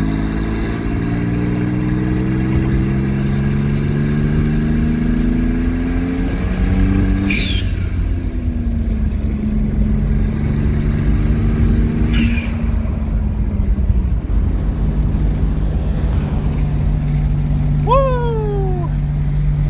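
Twin-turbocharged V6 Ford Mustang accelerating hard under boost, its engine pitch climbing through two gears with a brief high chirp at each change, about seven and twelve seconds in. It then settles to a steady lower drone, and near the end a whistle falls in pitch. The driver felt it hit a boost cut, perhaps from a blown-off coupler.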